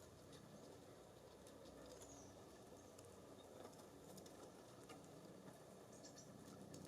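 Faint outdoor quiet with scattered light taps and a few brief high chirps from small birds at a feeder.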